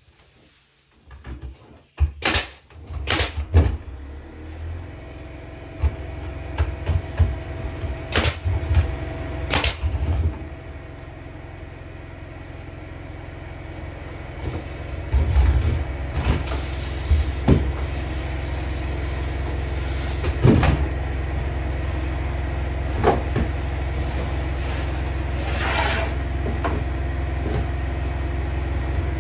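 A few sharp knocks, then a steady low motor hum that grows stronger about halfway through and holds, with scattered knocks over it.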